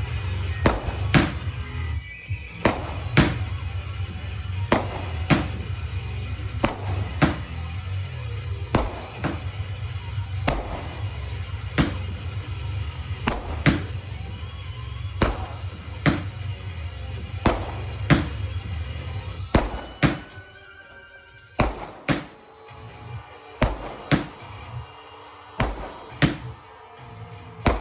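Fireworks banging about once a second over loud music with a heavy bass. About two-thirds of the way through the music drops away and the bangs carry on, less evenly spaced.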